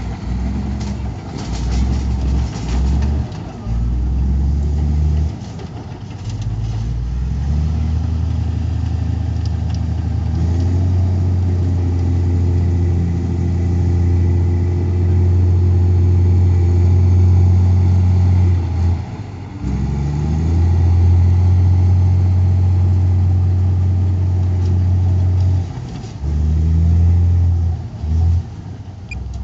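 Heavy diesel engine of an earthmoving machine working under load. The low engine note holds steady for long stretches, shifts in pitch now and then, and dips briefly several times in the first few seconds, about twenty seconds in, and near the end.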